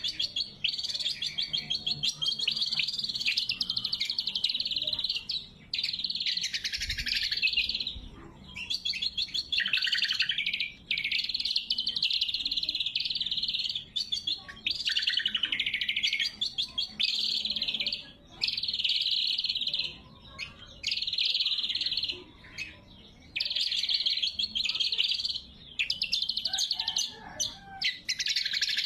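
Cucak kombo singing: loud, rapid high-pitched song phrases, each a second or more long, broken by short pauses every few seconds.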